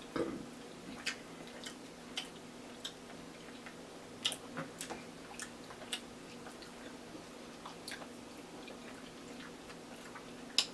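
Close-up chewing and mouth sounds: scattered wet clicks and smacks, about one or two a second, over a faint steady hum.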